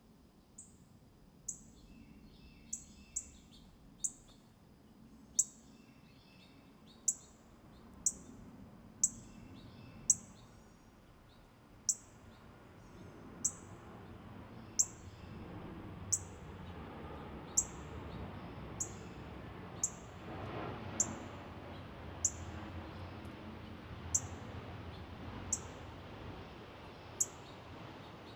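A small wild songbird repeating a short, very high chirp that sweeps quickly downward, about once every second or so. Softer, lower twittering mixes in during the first half, over a faint low outdoor rumble.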